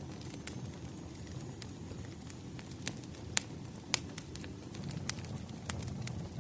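Wood fire crackling: a steady low rumble of burning logs with sharp pops and snaps at irregular intervals, the two loudest pops about three and a half and four seconds in.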